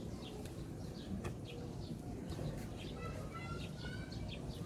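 Birds chirping in short calls, with one longer, slightly rising call about three seconds in, over a low background hum.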